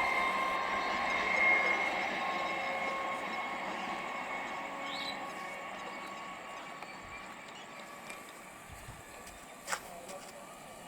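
EMU local train running with a steady electric whine over a rumble, both fading steadily. A single sharp click comes near the end.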